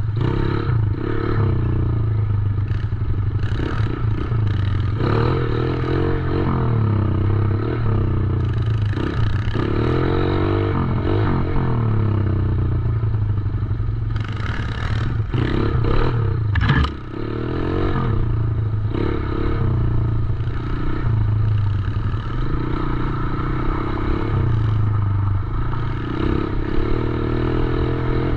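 A 110cc dirt bike engine running close by as the bike is ridden, its pitch rising and falling repeatedly as the throttle is worked, with clattering and scraping mixed in.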